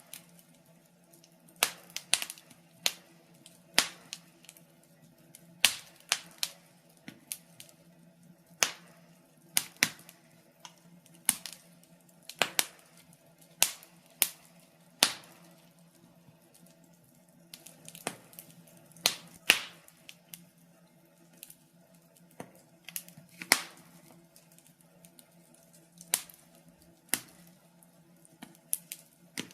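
Wood fire in a fireplace crackling: irregular sharp pops and snaps, some in quick clusters, over a faint steady hum.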